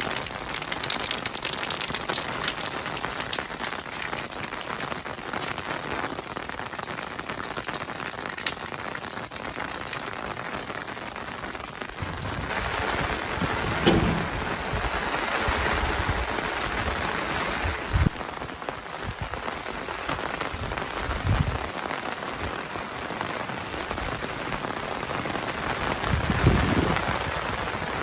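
Heavy rain falling, a steady hiss. Partway through, a low rumble joins in, with a few short thumps.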